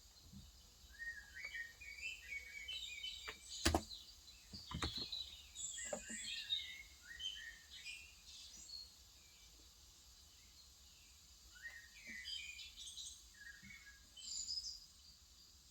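Small birds chirping in quick twittering runs, a busy stretch in the first half and a shorter one near the end. A few sharp clicks, the loudest about four seconds in, are scattered single keystrokes on a Cox Endeavor electro-capacitive keyboard.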